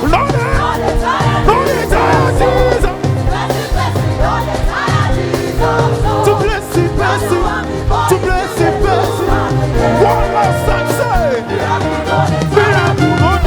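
Live gospel worship music: a band with bass, drums and keys playing steadily, with a voice singing wavering runs over it.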